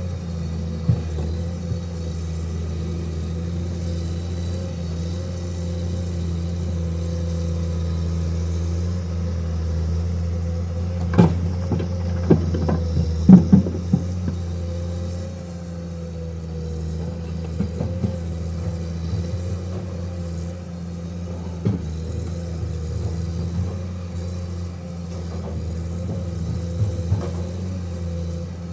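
Heavy diesel engine running steadily at a low, even pitch. A cluster of sharp knocks or clanks comes about eleven to fourteen seconds in, with a few single knocks later on.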